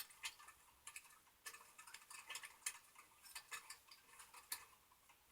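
Faint, irregular small clicks and ticks from coaxial cable and connectors being handled, a few every second.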